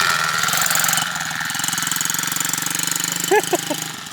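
SSR 110 pit bike's single-cylinder four-stroke engine running with a fast, even firing beat, getting gradually quieter.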